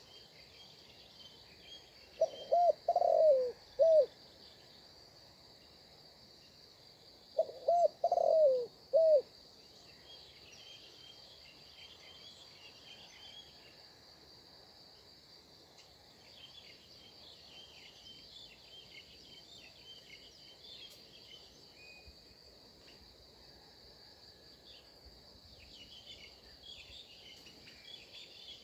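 A dove cooing twice, each a short phrase of a few notes, the two phrases about five seconds apart. Small birds chirp softly throughout over a steady high insect drone.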